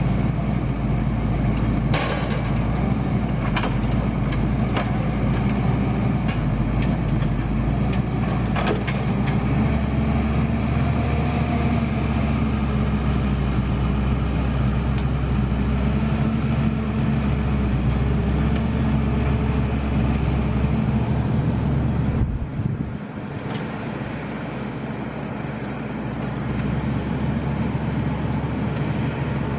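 T-150K wheeled tractor's diesel engine running steadily, with a few sharp clanks in the first nine seconds. The engine drops quieter about 22 seconds in, then picks up again near the end.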